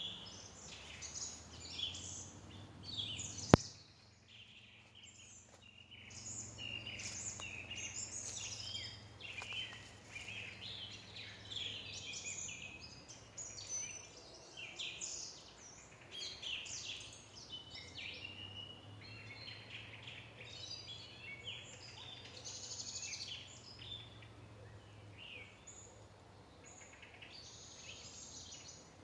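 Several small birds chirping and singing in quick, overlapping calls, over a low steady hum. One sharp click about three and a half seconds in.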